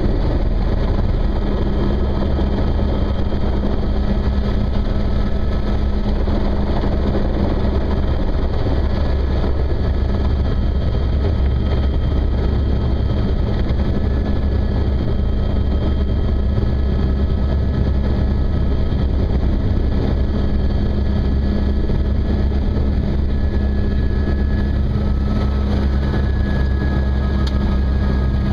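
Helicopter in flight: a steady, loud drone of rotor and engine with a deep rumble and a constant hum.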